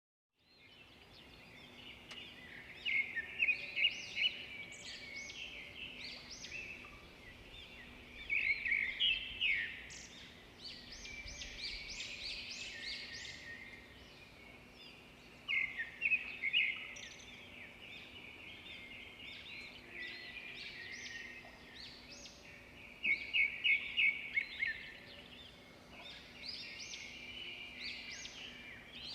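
Songbirds singing, with loud bouts of rapid, trilled chirps every several seconds over quieter ongoing twittering.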